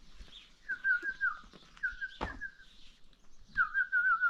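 Three short warbling whistled phrases, each a quick wavering tone under a second long, with a single sharp knock about two seconds in.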